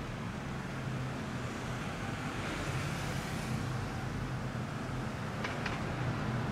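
Lamborghini Aventador's V12 running at low revs as the car rolls slowly, over a steady wash of road-traffic noise. A swell of traffic noise comes about halfway through, and two short clicks come close together near the end.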